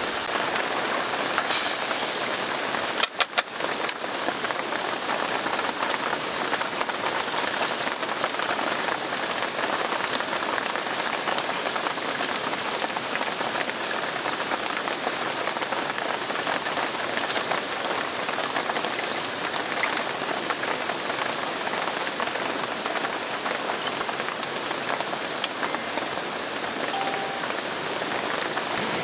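Typhoon rain falling steadily, an even dense hiss, with a few sharp clicks about three seconds in.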